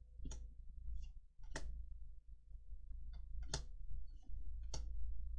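Trading cards being handled as a booster pack is gone through: a handful of sharp, irregularly spaced clicks and taps as cards are flicked and set down, over a low steady hum.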